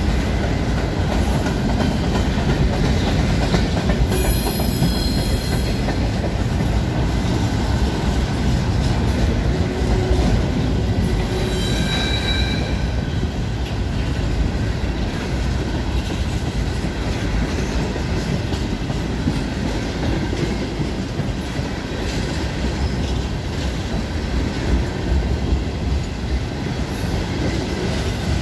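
Freight cars of a Norfolk Southern train rolling past close by: a steady low noise of steel wheels on rail, with a brief high wheel squeal about four seconds in and a shorter squeal of several clear tones about twelve seconds in.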